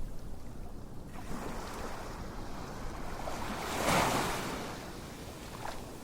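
A soft rush of noise that swells to a peak about four seconds in and then fades away, with a faint click near the end.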